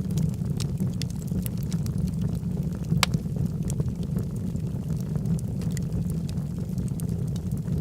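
Wood fire burning in a fireplace: a steady low roar of the flames with scattered sharp crackles and pops from the logs, one louder pop about three seconds in.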